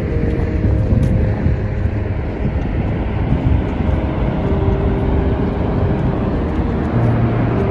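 Steady roar of the Horseshoe Falls at Niagara, with wind gusting and rumbling on the microphone.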